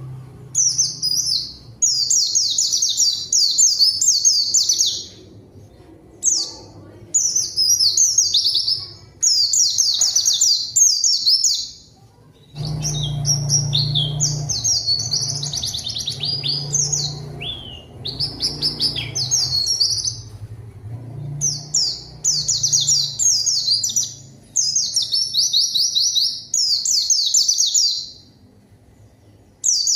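White-eyes (pleci) singing: rapid, high, chattering song phrases of a second or two each, repeated with short pauses between. A low hum comes in about a third of the way through and lasts several seconds.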